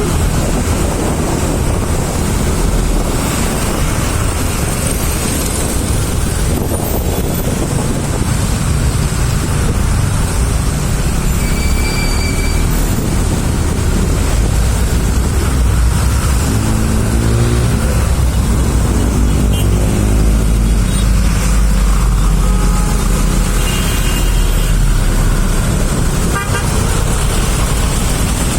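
Jammed road traffic: a steady rumble of idling and creeping vehicle engines, with short car horn toots now and then, around 12 s and again near 24 s, and an engine revving up mid-way.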